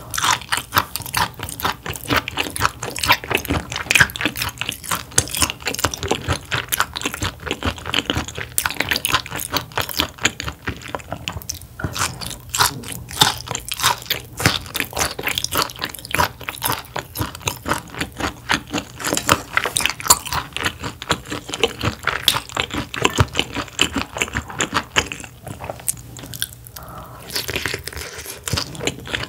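A person chewing sea bass close to the microphone: a rapid, uneven run of crunchy, moist mouth clicks, easing off briefly about eleven seconds in and again near twenty-five seconds.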